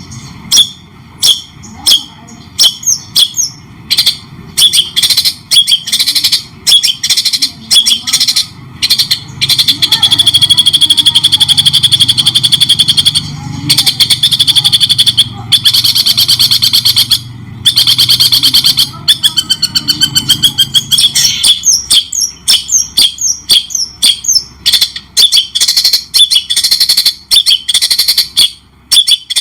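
White-rumped shama (murai batu) singing a loud, shrike-like song: sharp separate notes at first, then long fast trills through the middle, then quick chattering phrases again.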